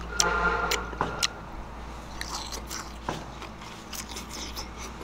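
Crisp raw green mango being bitten and chewed: sharp crunches in the first second or so, then softer, irregular chewing crunches.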